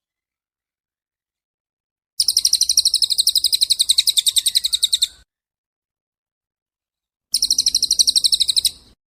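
A small songbird singing a rapid trill of high repeated chirps, about ten a second. It comes in two bursts, about three seconds and then a second and a half long, with dead silence before, between and after.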